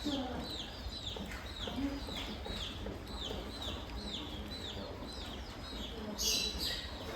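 Repeated short high-pitched chirping calls, about two to three a second, from an animal at the zoo, with a brief hissing burst about six seconds in.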